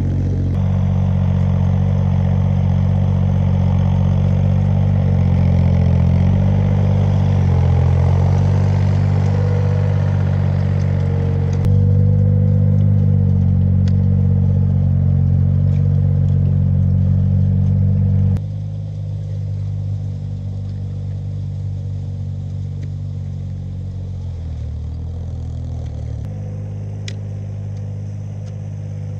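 An engine running steadily. The sound shifts abruptly about twelve seconds in, and again about eighteen seconds in, after which it is quieter.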